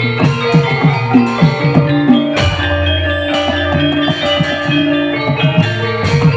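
Live Javanese gamelan-style music: ringing struck metal keys over a busy pattern of hand-drum strokes, with a long low gong-like tone near the middle.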